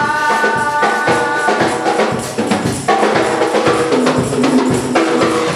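Gospel worship music between sung lines: a drum kit and tambourine keep a steady beat under sustained chords, with a held sung note dying away in the first second and a half.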